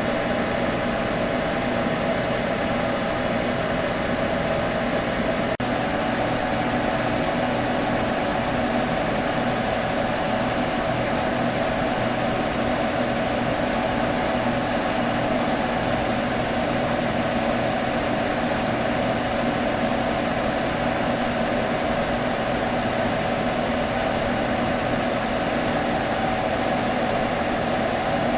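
Computer running with a steady hum from its fans, two held tones over an even whir. The level dips for an instant about five and a half seconds in.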